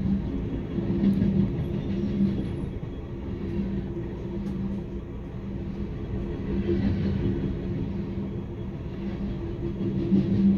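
Steady rumble of rail cars on the track as a grain train of covered hopper cars passes close alongside, heard through the window glass from inside a passenger car, swelling and easing slightly in loudness.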